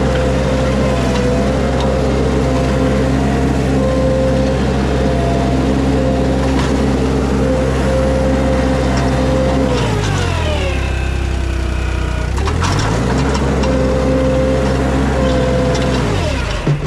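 Mini skid steer engine running at steady high revs, then bogging down under hydraulic load about ten seconds in, its pitch dropping and recovering about two seconds later, with another brief dip near the end.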